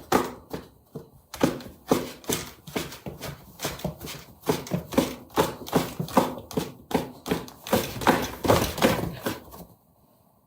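A fast, irregular series of knocks and taps, about two to three a second, that stops shortly before the end.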